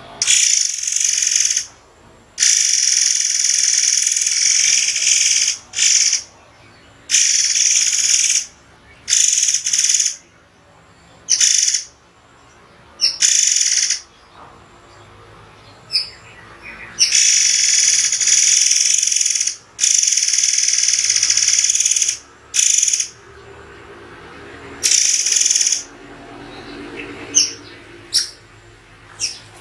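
Murai air songbird giving loud, sharp, high-pitched bursts of song, each from a fraction of a second to about two seconds long, separated by short pauses. This is the clipped, spaced 'sharp shot' style that caged songbirds are trained on.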